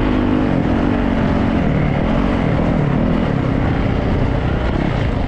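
Yamaha YZ450 dirt bike engine running while riding, its pitch rising and falling with the throttle over a dense rush of noise.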